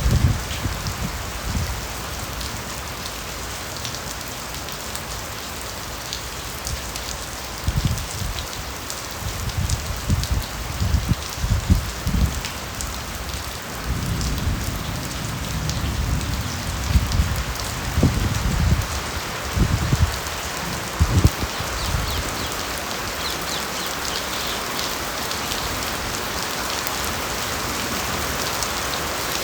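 Steady rain falling on bamboo forest foliage, a constant hiss. Irregular low rumbles come and go between about 8 and 22 seconds in.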